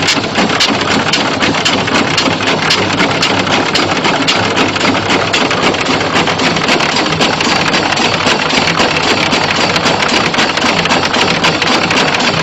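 Loud industrial pump unit running steadily: an engine hum under a fast, continuous clatter of clicks.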